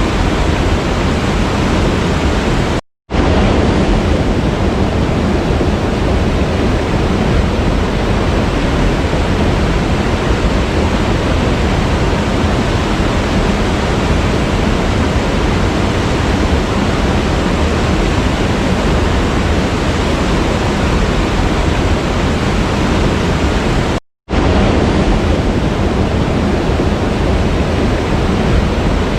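Waterfall's steady, dense rush of falling water, even and unbroken except for two split-second dropouts to silence, about three seconds in and again about five seconds before the end.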